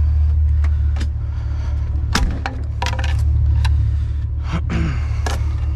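Vehicle engine idling with a steady low rumble, over which come a series of sharp clanks and knocks from scrap being handled, and a short descending creak near the end.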